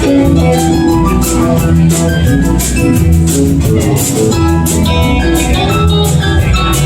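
Live band playing an instrumental passage of a song: guitar over a drum kit and a steady low bass line.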